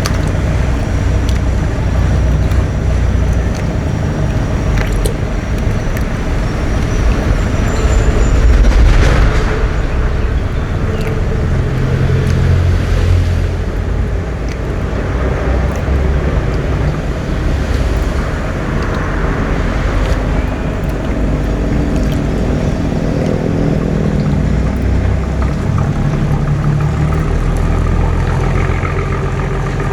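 Boat engine running steadily at a low, even pitch, swelling a little in loudness about a third of the way through.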